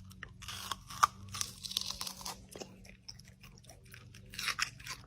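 Crunchy chewing: irregular crisp crunches and bites, with a steady low hum beneath.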